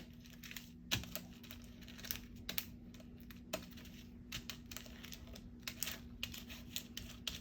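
Scattered light clicks, taps and faint rustles of card stock and small craft tools being handled and set down on a work surface, over a steady low hum.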